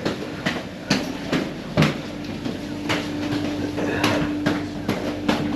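Footsteps knocking irregularly on the steel floors and stairs inside a ship, over a steady low hum of shipboard machinery.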